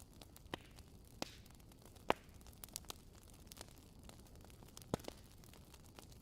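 Wood fire crackling: irregular sharp pops and snaps over a soft steady hiss, the loudest pops about two seconds in and again near five seconds.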